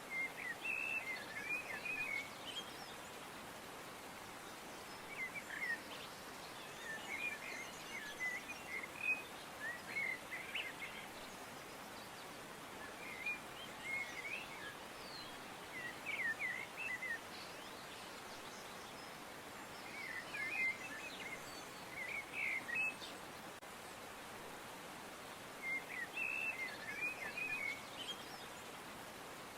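Small birds chirping in short twittering phrases every few seconds over a steady background hiss.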